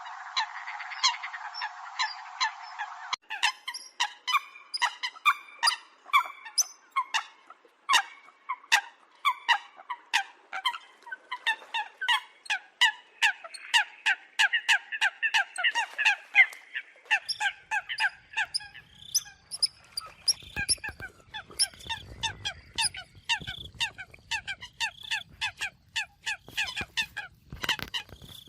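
Eurasian coots calling: a dense run of short, sharp honking calls, several a second and overlapping, as from a flock. For the first three seconds the calls sit over a hiss that stops abruptly.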